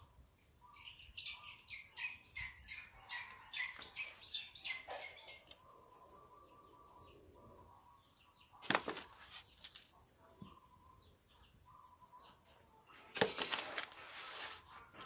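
Birds chirping in a quick, repeated series for the first five seconds or so. After that comes faint rustling of hands working potting soil around the roots, with two louder rustling scrapes about nine and thirteen seconds in.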